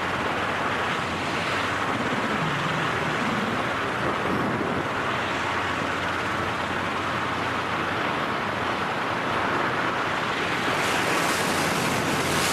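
Steady rush of wind on a microphone during skydiving freefall, an even roar with no breaks.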